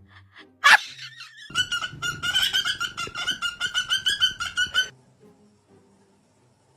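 A parrot calling in a fast run of short, repeated squawks, about five a second, for some three seconds, after one short sharp burst about a second in.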